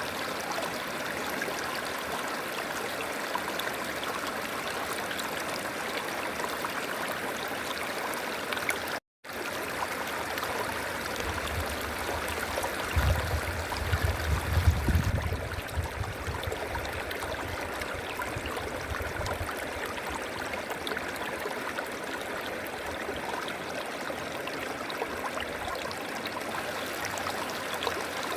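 River water flowing steadily. The sound cuts out for an instant about a third of the way through, and a low rumble swells in the middle and dies away.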